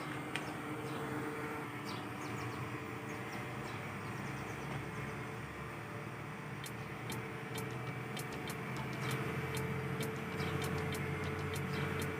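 Robot vacuum cleaner running: a steady motor whir and hum. About halfway through, a string of sharp clicks and ticks joins in over the whir.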